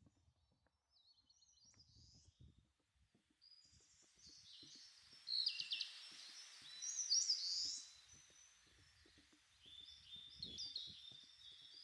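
Wild birds singing outdoors: bursts of quick, high chirping phrases, loudest around the middle and again near the end.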